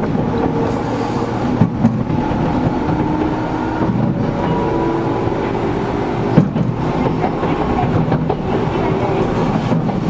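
Interior running sound of a Gakunan Railway 7000-series electric railcar: steady train noise of wheels on rail and running gear, with the air conditioning running and several steady hums. A single sharp knock comes about six seconds in.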